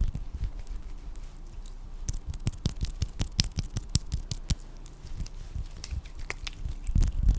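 Close-miked ASMR trigger sounds: an irregular run of small, sharp clicks and crackles, densest in the middle of the stretch.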